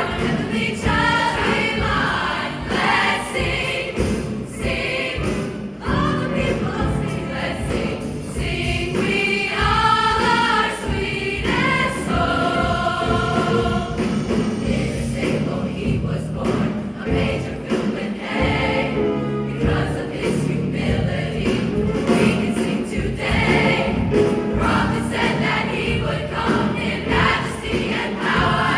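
A large school choir singing a Christmas song with accompaniment.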